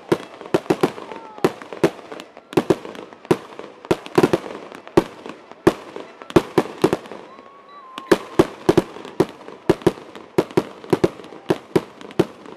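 Aerial fireworks display: shells bursting in a rapid barrage of sharp bangs and pops, several a second, with a brief lull about seven seconds in.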